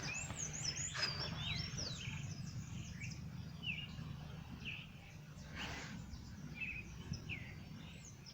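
Several birds chirping, with many short calls that sweep up and down in pitch repeated throughout, over a steady low rumble.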